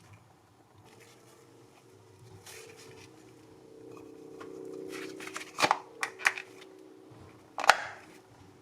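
Hand-work handling sounds as parts are worked on: a few sharp clicks and knocks, three close together about five and a half to six and a half seconds in and a louder one near the end, over a faint steady hum.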